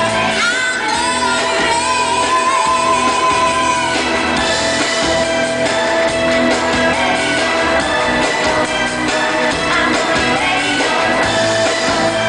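Live pop band playing with a woman singing lead, holding long sung notes in the first few seconds, then the band carries on with drums and instruments.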